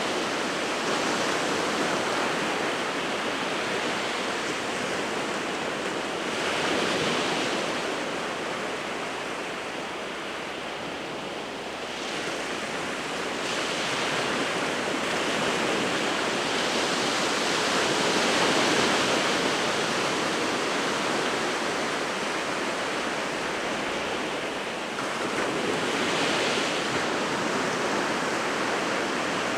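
Winter sea surf: waves breaking and washing on the shore in a continuous rush that swells and eases every several seconds.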